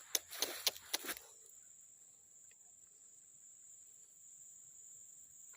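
Insects keeping up a steady high-pitched drone, with a quick run of about half a dozen sharp clicks or crunches in the first second.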